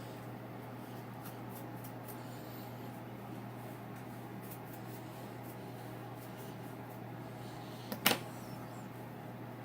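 Faint scratchy rustling of hair being teased with a comb over a steady low hum, with one brief sharp burst about eight seconds in.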